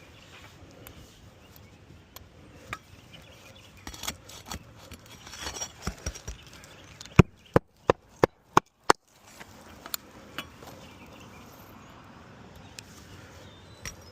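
Hammer driving roofing nails into an asphalt shingle: five sharp strikes in quick succession, about a third of a second apart, partway through. Lighter clicks and rustling of shingles being handled come before them.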